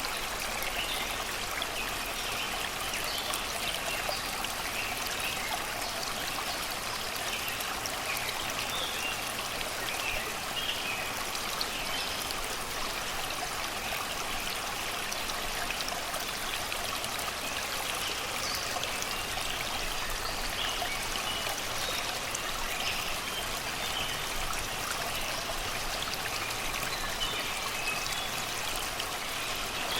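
Shallow river water flowing steadily over and around rocks and stones, with birds singing in the background in short chirps throughout.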